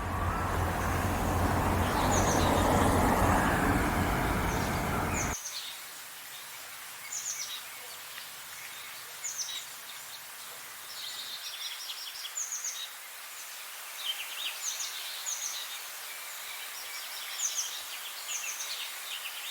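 Songbirds chirping and singing: short, high, down-slurred chirps come about once a second, mixed with faster trilled phrases. For the first five seconds or so a loud, low rumbling noise runs underneath, then cuts off suddenly.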